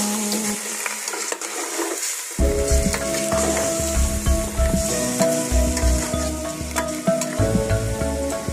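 Chicken pieces sizzling as they sauté in an aluminium pot, with a metal spoon stirring and scraping against the pot and giving short clicks.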